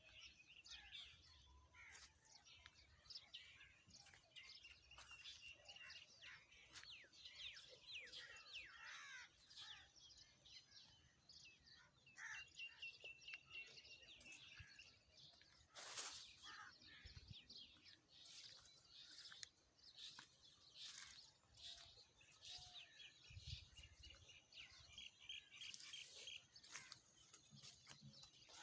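Several songbirds calling and singing together in morning birdsong, faint, with many short chirps and a few rapid trilled runs of repeated notes. A single sharp click about halfway through.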